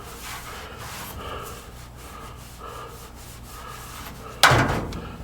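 Hand rubbing and wiping inside a sheet-metal return air duct during cleaning, with one loud knock about four and a half seconds in.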